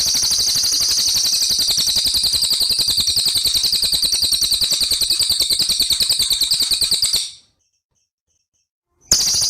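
A small songbird's high, rapid, continuous trill, many even pulses a second, that cuts off suddenly about seven seconds in and starts again near the end after about two seconds of silence.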